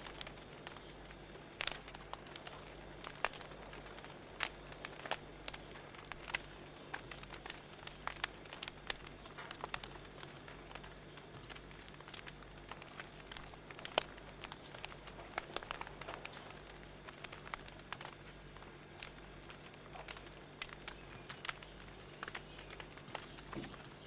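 Wood fire crackling: irregular pops and snaps, some sharper than others, over a low steady hum.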